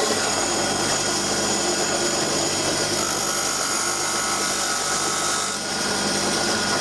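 A bench grinder running steadily with a stick of chalk held against the side of its wheel, grinding it to a sharp point. The grinding sits over a constant motor hum and eases briefly about five and a half seconds in.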